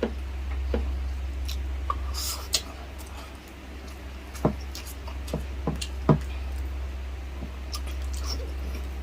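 Close-up eating sounds: wet, squishy chewing with scattered sharp clicks and smacks, several in quick succession about halfway through, over a steady low hum.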